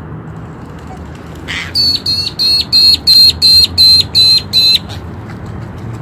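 A bird calling loudly close by: a rapid run of about ten sharp, high, evenly spaced notes, each dropping in pitch at its end. It starts about two seconds in and stops just before the five-second mark.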